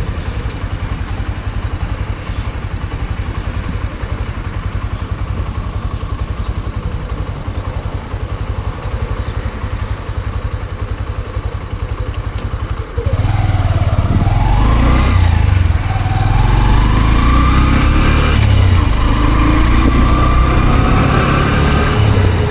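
Honda CB125F's single-cylinder four-stroke engine idling steadily, then pulling away about thirteen seconds in, the revs rising, dropping at a gear change, and climbing again.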